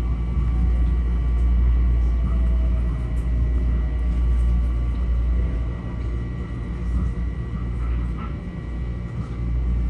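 Interior of a Metro-North M7A electric multiple-unit railcar: a steady low hum from the car's motors and equipment, with thin steady high tones above it.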